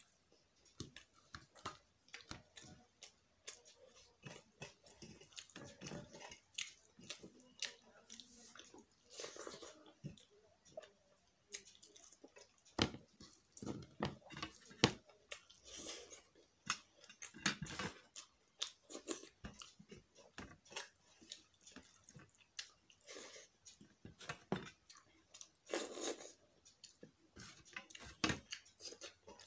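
Close-up sounds of a person eating soft rice and vegetables by hand: chewing with many short, irregular wet smacks and clicks.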